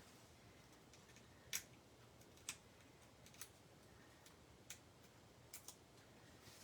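Faint, scattered small clicks and ticks, about six in all, the loudest about a second and a half in, as foam adhesive dimensionals are picked off their backing sheet and pressed onto cardstock, over a quiet room.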